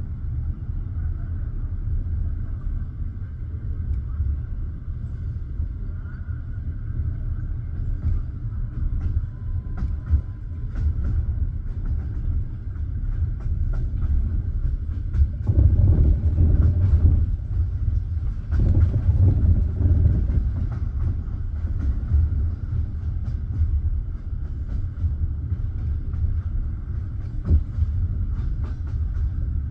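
Passenger train carriage rolling along the track, heard from inside: a steady low rumble of wheels on rails with scattered clicks of the wheels over the rails. The rumble grows louder for a few seconds about halfway through.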